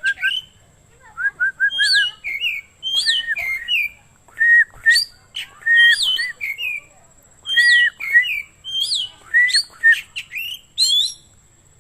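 Oriental magpie-robin (kacer) singing loudly in a varied whistled song. Quick runs of short notes alternate with rising-and-falling whistled phrases that repeat about every one and a half seconds.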